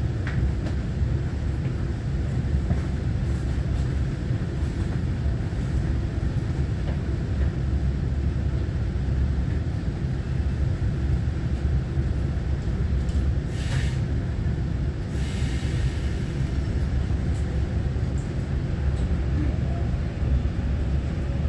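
Taiwan Railway EMU923 electric multiple unit running between stations, heard from inside the passenger car: a steady low rumble of wheels and running gear on the rails. Two brief hissing noises come about two-thirds of the way through.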